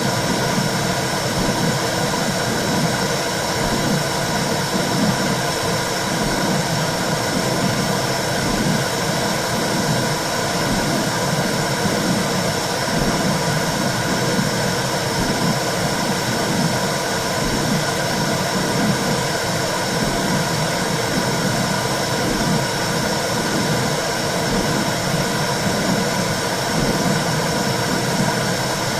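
Womb sound for soothing a baby: a steady whooshing noise with a low, rhythmic pulsing underneath.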